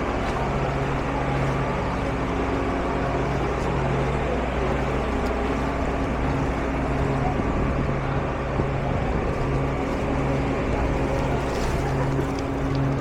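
A vehicle engine running steadily, its low hum swelling and easing every second or two over constant road or water noise.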